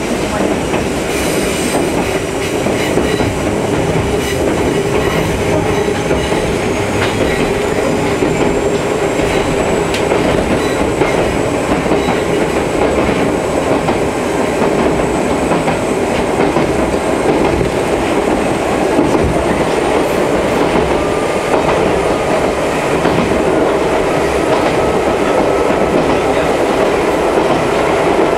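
Inside an Ichibata Electric Railway 2100-series electric train running along the line: a steady rumble of wheels on track with clickety-clack from the rail joints. A faint high whine rises in pitch over about the first ten seconds, then holds.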